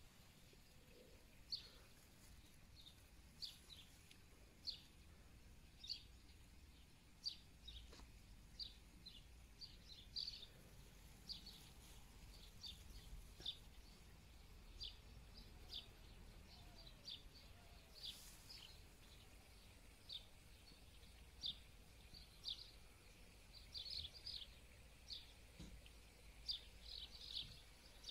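Faint, short, high chirps of a bird, repeated irregularly about once or twice a second and bunching into quick runs near the end, over a quiet background.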